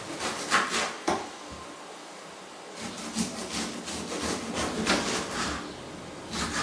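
Knife chopping fruit on a wooden cutting board: a run of short knocks and scrapes, with a pause about a second and a half in before the chopping resumes.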